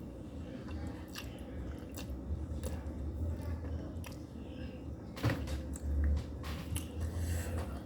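A person chewing and slurping noodles close to the microphone, with scattered small wet clicks and a couple of sharper mouth noises over a steady low hum.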